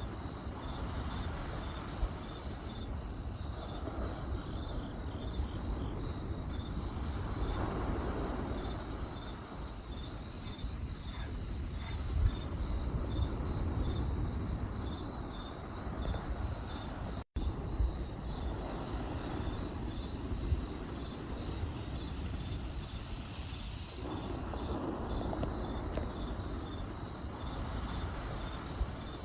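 Crickets chirping in a steady pulsing high trill over a low rushing campfire, with a few sharp crackles from the burning wood. The sound cuts out for an instant about two-thirds of the way through.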